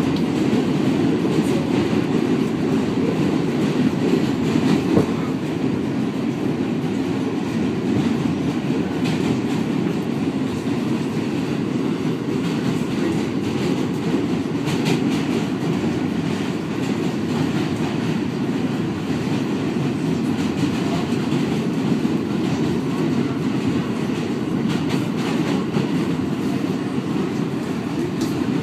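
New York City Subway D train running along the track: a steady rumble of wheels on rails, with occasional clicks over rail joints.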